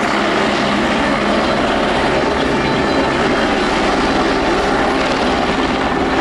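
Two Navy helicopters flying in close formation, their rotors and turbine engines making a steady, loud noise.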